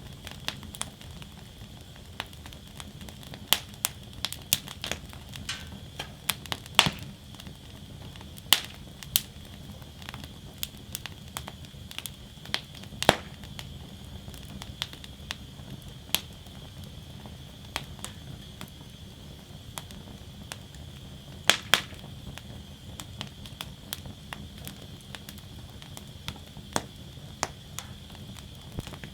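Wood fire burning in a fire basket: a steady low rush under sharp, irregular crackles and pops from the burning wood, with a few louder snaps.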